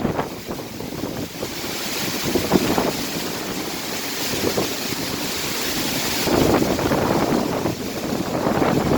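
Tropical-storm wind gusting hard and buffeting the microphone, a steady rushing noise that swells and eases. A hissing gust builds about two seconds in, and a heavier, lower rumbling gust takes over past the middle.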